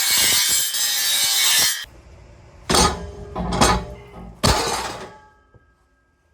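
Metal exhaust race pipe being wrestled out from under the truck: a long scraping grind of metal on metal for about two seconds, then three ringing clanks as the pipe knocks against the exhaust hangers and underbody.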